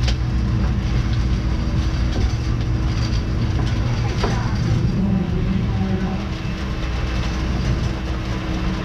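Steady low rumble of a running vehicle with a constant hum, heard from close by.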